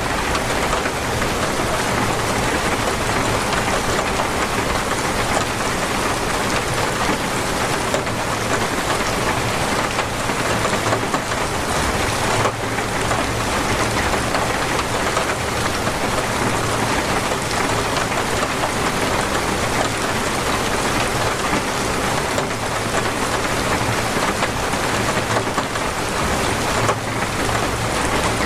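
Torrential rain falling steadily, a dense, even hiss of drops with no let-up.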